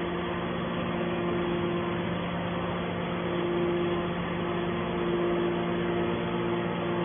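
Hydraulic metal baler's motor and pump running steadily with a constant hum.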